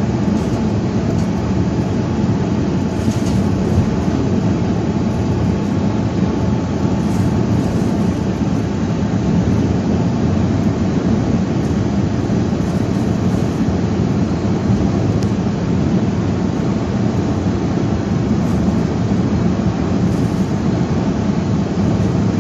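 Loud, steady low rumble of a vehicle on the move, mixed with the rush of strong wind.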